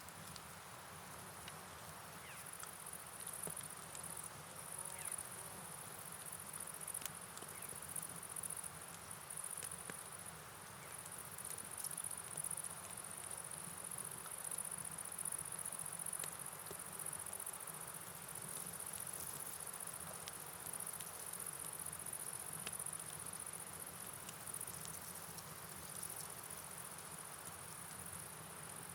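A steady, high-pitched chorus of night insects, gently pulsing, over a soft, even hiss of rain and flowing water with scattered faint drips.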